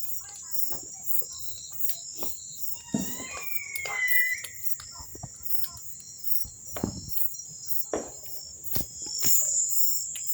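São João bonfire of burning wood crackling with irregular sharp pops, over a steady high-pitched trill of crickets. A short high whistle-like tone glides briefly about three seconds in.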